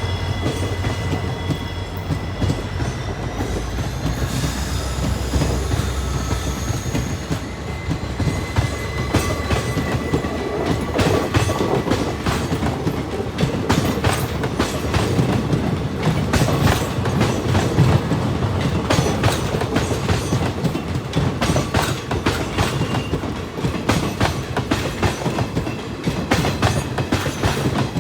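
WDP4D diesel-electric locomotive passing close by with a deep engine hum for the first several seconds, then its train of ICF passenger coaches rolling past with a continuous clickety-clack of wheels over rail joints.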